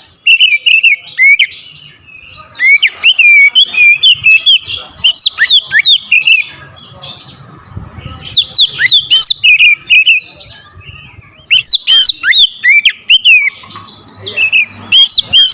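Oriental magpie-robin (kacer) singing loudly, in about five bursts of rapid whistled and sharp, chattering notes with short pauses between them.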